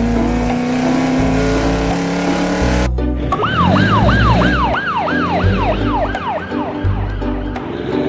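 Music with a steady bass beat. Over it a car engine rises slowly in pitch, then about three seconds in a police siren cuts in with a fast yelp, its up-and-down whoops repeating about twice a second.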